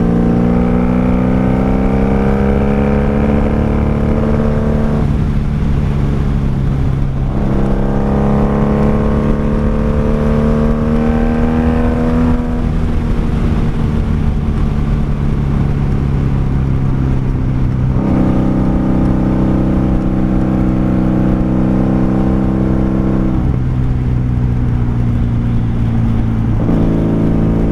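Honda Magna VF750C's V4 engine running under way, its note climbing slowly as the motorcycle gathers speed and then dropping and settling several times as the throttle and gears change.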